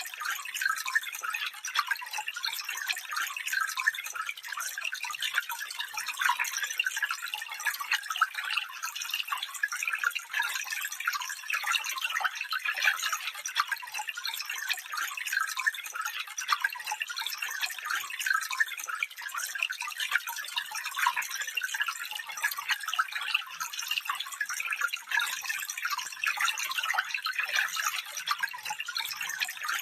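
Shallow stream running over stones, a steady trickling and babbling without a deep rush.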